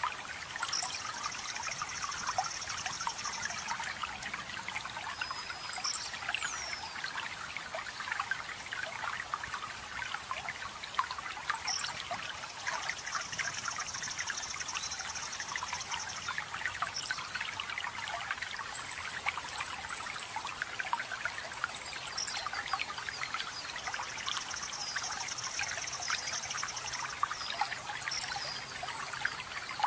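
Running water trickling steadily, with forest birds singing over it: a high trill of about three seconds comes three times, a still higher trill sounds near the middle, and short chirps are scattered between.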